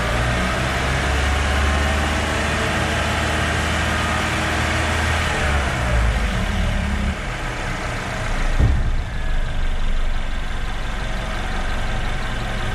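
Car engine held at raised revs, about 2500 rpm, for an alternator charging test, then dropping back to idle between five and seven seconds in. A single thump near nine seconds in.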